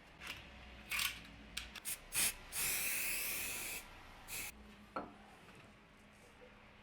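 Hand work in a woodworking shop: a few short scrapes and rubs, then one longer sliding rub lasting over a second, another short scrape, and a sharp click about five seconds in.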